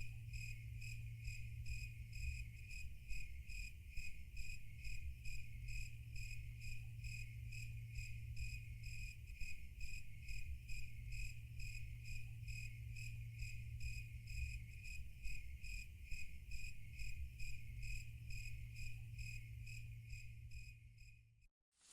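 Crickets chirping in rapid, evenly spaced pulses over a low steady hum, stopping suddenly just before the end.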